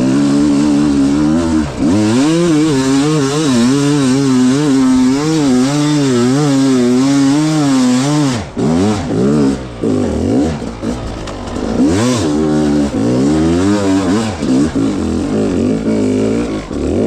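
300 cc two-stroke dirt bike engine revving hard, held high with its pitch wavering up and down for about eight seconds, then briefly dropping off and coming back in shorter, uneven bursts of throttle.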